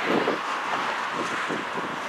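CSX freight train rolling past: a steady rushing noise of wheels on rail with uneven low thumps.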